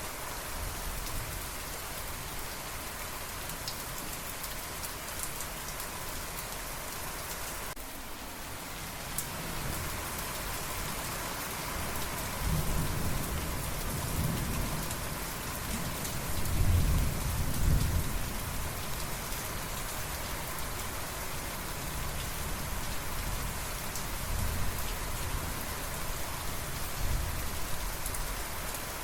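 Steady heavy rain, with a long roll of distant thunder rising about halfway through, loudest some six seconds later, then rumbling off.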